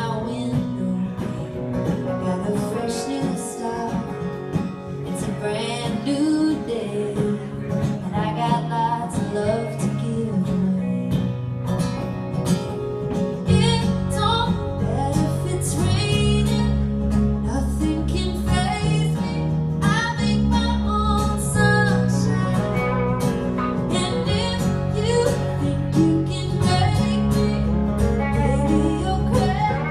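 Live band music with a guitar playing many bending melodic lines. About 13 seconds in, the band grows fuller, with a heavier low end.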